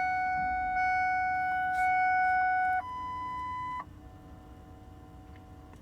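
Electronic dashboard warning chime in the cab of a Ford 7.3 Power Stroke diesel truck: a steady tone restarting about once a second, then switching to a higher single tone for about a second before cutting off about four seconds in.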